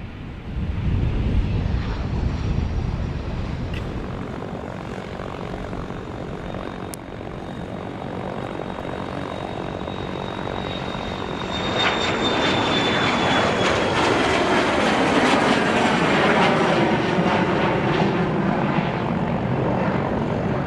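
Aircraft engines running as a plane passes close by, with a high whine that falls slowly in pitch. The engine noise then grows loud about halfway through and stays loud.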